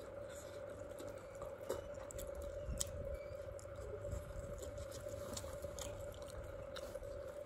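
A person chewing a mouthful of grilled ribbon fish, with small scattered clicks and smacks, over a steady hum.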